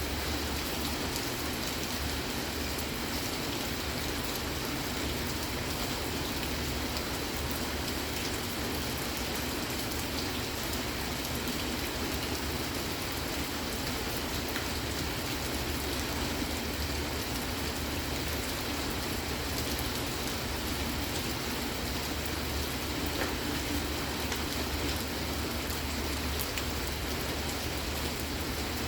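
Steady rain falling without a break.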